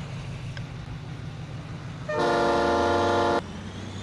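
A vehicle horn sounds one steady blast of a little over a second, starting about two seconds in and cutting off suddenly, over the low steady hum of the pickup truck's engine.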